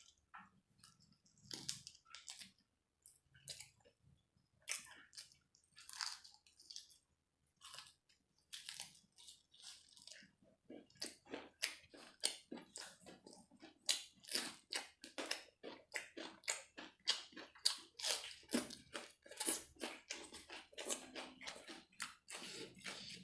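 A person chewing and biting food close to the microphone while eating a tandoori chicken meal: wet, crunchy mouth sounds, sparse at first, then quicker and louder from about halfway through.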